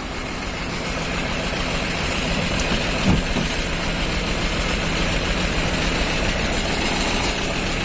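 Diesel engine of a Nissan Diesel (UD) PK260 tractor head idling steadily.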